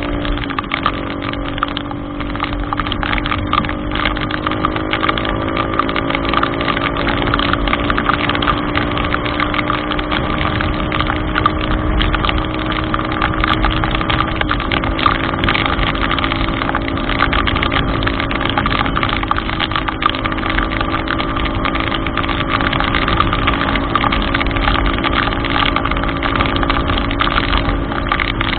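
A vehicle engine running steadily, its pitch stepping down slightly about halfway through, over a constant crackling hiss of rain and water on a flooded road.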